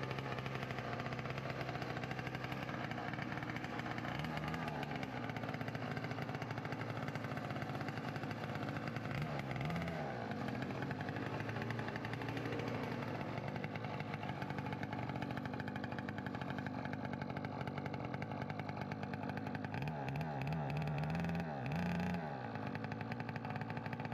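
Tiny motorbike's small petrol engine running steadily at idle, blipped up in revs briefly three times, with the choke still on by the rider's reckoning.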